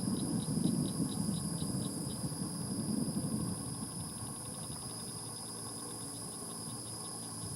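Insects calling: a steady high drone and a rhythmic series of short high chirps that speed up after about two seconds. Under them, a low rumble fades over the first few seconds.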